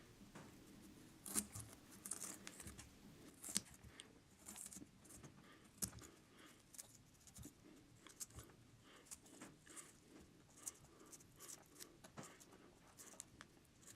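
Faint, irregular small clicks and scrapes of small metal surgical instruments working at a carrot, hollowing it out into a pipe bowl.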